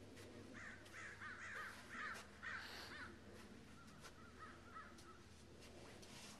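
Faint bird calls, a quick run of short repeated calls in the first three seconds and a few weaker ones about four seconds in.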